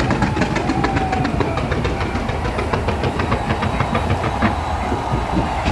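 Fireworks going off in rapid succession: a dense run of sharp crackling pops over a low rumble. The pops thin out after about three and a half seconds.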